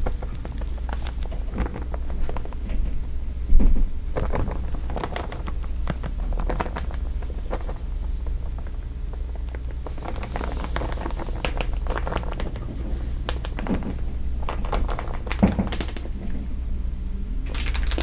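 Crinkling, irregular crackles and ticks over a steady low hum, with one thump about three and a half seconds in and denser crinkling starting near the end.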